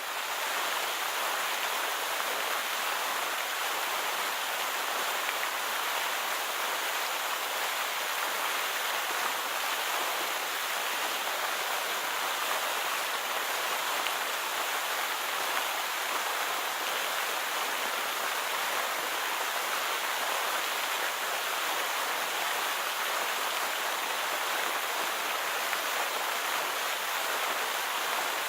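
Steady rush of falling water from Victoria Falls, an even hiss that holds constant throughout.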